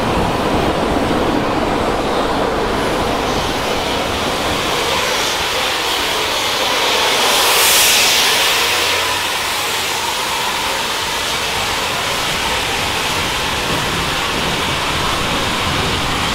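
Railway wagons rolling past close by, with a steady noise of wheels on rail. The noise swells briefly with a hiss about eight seconds in.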